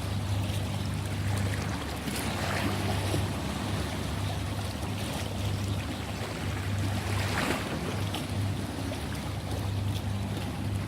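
Ocean waves washing in, with two louder surges, one about two seconds in and one about seven seconds in, over a steady low hum.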